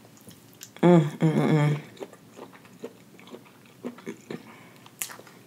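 Close-miked eating of a forkful of sautéed mushroom: a short hummed 'mmm' about a second in, then soft chewing and small mouth clicks.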